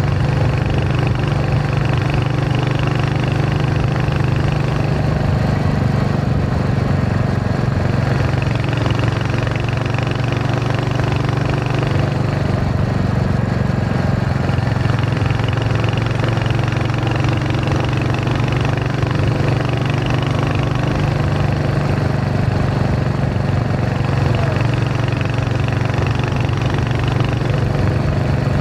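Royal Enfield Hunter 350's single-cylinder engine and exhaust running steadily during a ride, holding an even engine speed with no gear changes or revving.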